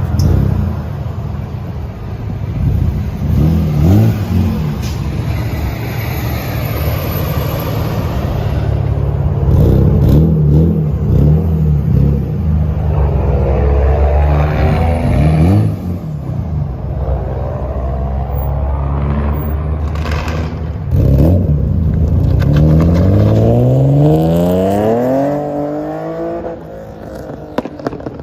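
BMW E36 M3 straight-six engine revving through a freshly welded straight 3-inch single exhaust with a Vibrant muffler. The revs rise and drop several times, ending in one long climbing rev near the end. The owner calls the exhaust tone not raspy.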